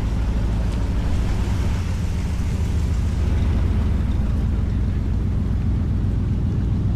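A car engine running steadily at low revs, a constant low-pitched rumble with no rise or fall.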